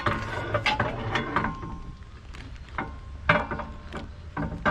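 Metal clanking and knocking as a rear sway bar fitted with new stabilizer links is handled and lined up against the car's underside: a run of separate knocks, a few ringing briefly.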